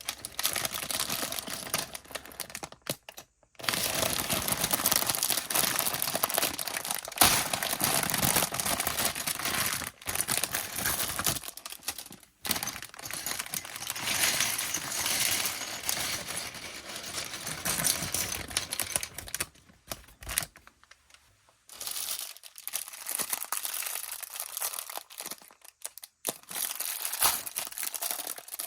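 Plastic Lego parts bag being crinkled and torn open by hand, in long stretches of dense rustling broken by a few short pauses.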